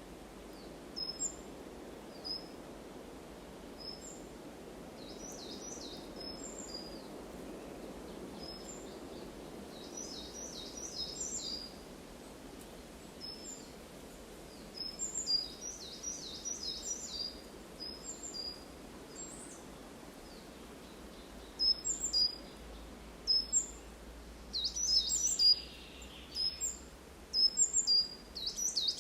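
Birds chirping: short high chirps, some single and some in quick runs of several, over a faint steady background hiss. The calls come thicker and louder from about two-thirds of the way through.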